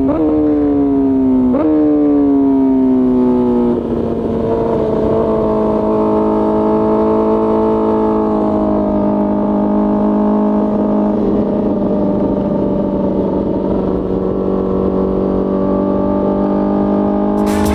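Honda CBR1000RR-R Fireblade's inline-four engine running at fairly high, steady revs. The pitch wavers and eases down over the first few seconds, then holds level.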